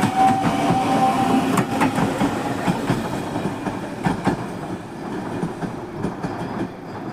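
Wide View Shinano limited express electric train pulling out of the station: its wheels click over the rail joints above a running rumble. A steady whine fades out in the first second or two, and the train sound grows quieter as it moves away.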